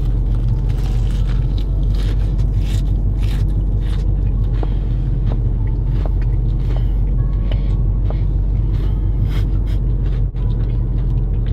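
Crunchy bites and chewing of a crispy fried Popeyes spicy chicken sandwich, many short crackling crunches close to the mic. A steady low hum runs underneath.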